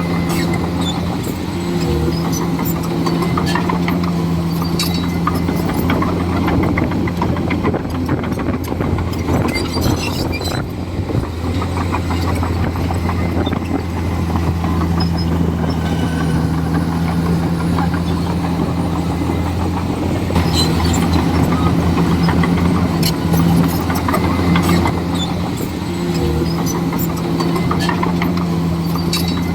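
Komatsu D41E bulldozer's diesel engine running steadily under work, its note shifting a little now and then, with scattered sharp clicks and knocks over it.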